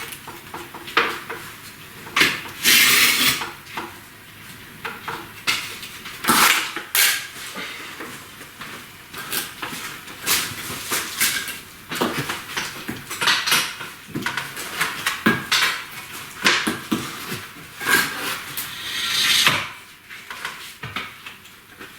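Bricklaying: a steel trowel scraping mortar and clinking against bricks in irregular short clicks and scrapes.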